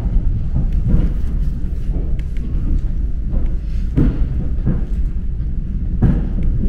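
Low rumble of a moving suburban electric train heard from inside the carriage, with irregular knocks as the wheels pass over rail joints and switches, about four in a few seconds.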